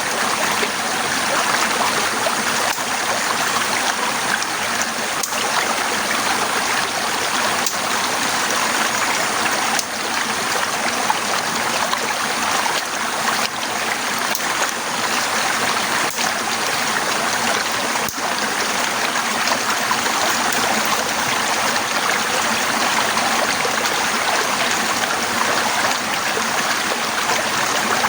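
Heavy rain pouring steadily, a dense, even rushing hiss.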